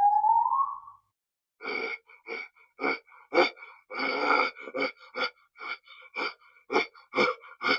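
An animal giving a run of short, repeated calls, about two a second, after a brief rising tone that fades in the first second.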